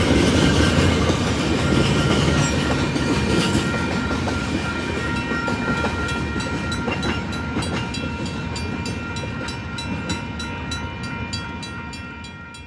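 Train rolling past and moving away, its wheels clicking over rail joints about three times a second, with a steady high ringing tone over the rumble; it fades steadily and cuts off at the end.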